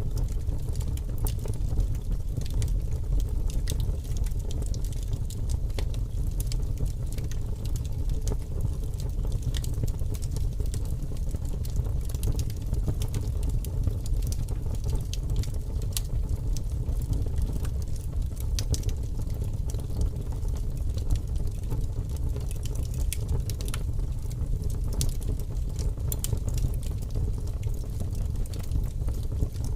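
Fire crackling in a fireplace: many small sharp pops and snaps scattered over a steady low rumble of the flames.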